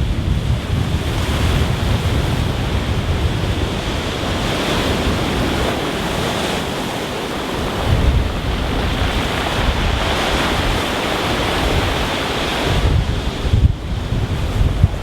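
Rough sea surf washing continuously onto a stony beach, swelling and easing as waves break. Wind buffets the microphone with a gusty low rumble underneath.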